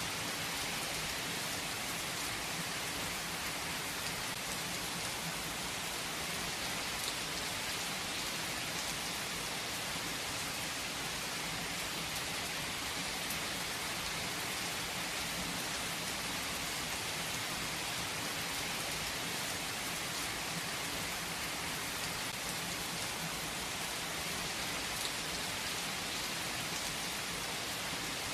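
Steady rain falling, an even hiss of many drops with the odd single drop ticking through.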